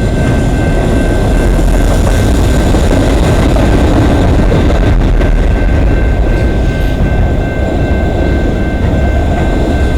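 CN intermodal freight train's cars rolling past on the rails: a loud, steady rumble with a few thin steady high-pitched tones over it.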